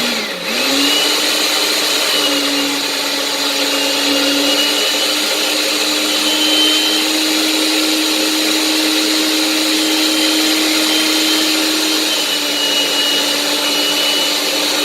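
Countertop blender motor running steadily as it purées pineapple chunks with rum. The motor pitch dips briefly at the very start, then holds a steady hum.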